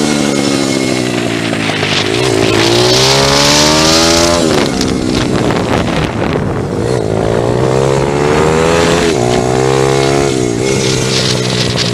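Pit bike engine being ridden hard: its pitch climbs under throttle and drops sharply again, about five times in a row, with wind rushing over the microphone.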